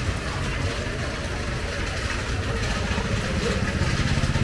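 A motor vehicle engine idling close by with a steady low pulse, getting louder near the end.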